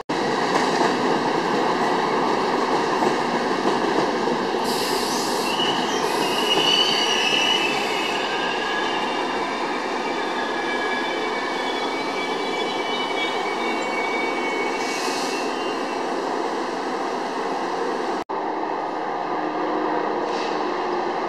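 ÖBB passenger train behind a Taurus electric locomotive rolling slowly past along the platform, its wheels squealing on the rails, with a couple of short hisses. The noise breaks off suddenly about 18 seconds in and carries on a little quieter.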